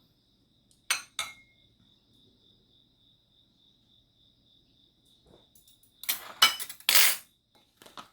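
Cutlery clinking and scraping against dishes: two sharp clicks about a second in, then a louder run of clinks and scrapes near the end. A faint steady high-pitched whine sits underneath.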